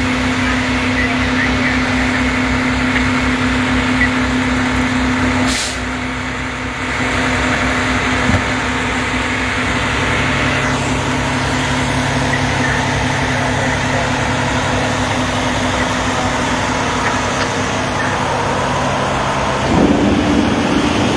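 Heavy truck's diesel engine running, with a short air hiss about five and a half seconds in. The engine note drops to a lower steady hum around ten seconds in and steps up again near the end.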